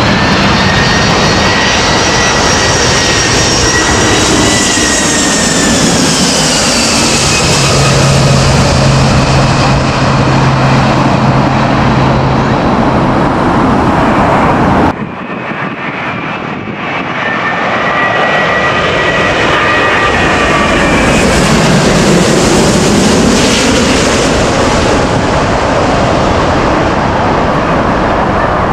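Jet airliners on final approach passing low overhead, their engine whine and rumble falling in pitch as each goes by. The sound breaks off abruptly about halfway, and a second landing jet passes in the same way.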